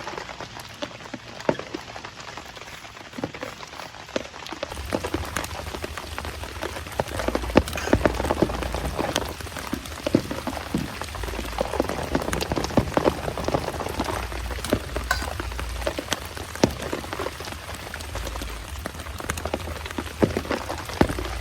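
Heavy rain falling, with many separate drops striking close by. About five seconds in it turns louder and fuller, with a low rumble underneath.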